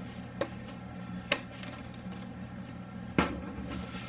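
Three separate knocks of a salt-and-pepper jar and its lid being handled on a counter, the loudest about three seconds in, over a steady low hum.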